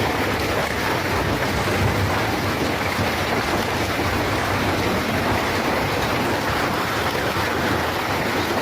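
Loud, steady rushing noise with no breaks or single strikes, like heavy rain or a storm.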